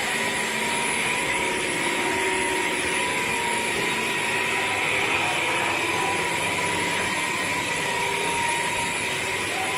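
BISSELL CrossWave OmniForce cordless wet-dry floor cleaner running steadily, its motor giving an even rushing sound with a constant whine.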